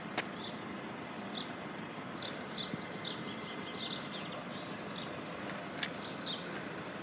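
Small birds chirping, short high calls repeated every second or so, over a steady hiss of outdoor background noise, with a few sharp clicks.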